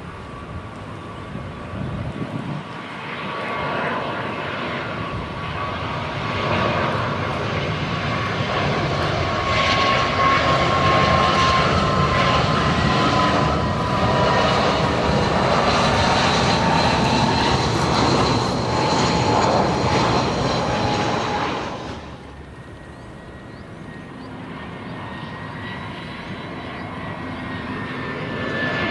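Jet airliner engines passing close: the noise swells over several seconds to a loud peak with a slowly falling whine. About 22 seconds in it cuts off abruptly, and a second jet's high whine begins to build.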